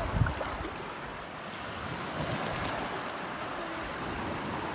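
Sea surf washing steadily, with wind buffeting the microphone in low rumbles, strongest just after the start.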